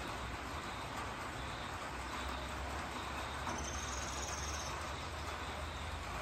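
Steady hiss of rain falling over trees, with a low rumble underneath. About three and a half seconds in, a high insect buzz sounds for about a second.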